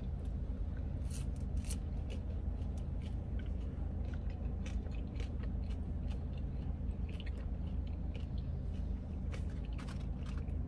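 A person chewing food in a closed car cabin, with scattered small crunchy clicks, over a steady low hum.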